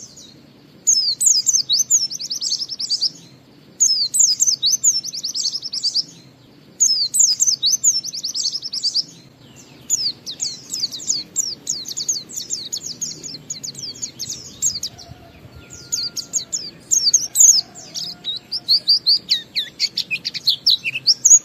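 A white-eye (pleci) singing a fast, high-pitched twittering song in the 'ngalas' style: three bursts of rapid chirps of about two to three seconds each, then a longer, almost unbroken run of chirps from about halfway in.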